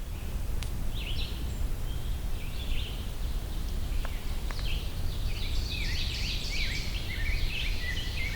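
Rose-breasted grosbeak singing a robin-like warbled song. A few short phrases come first, then it runs continuously from about halfway through, over a steady low background rumble.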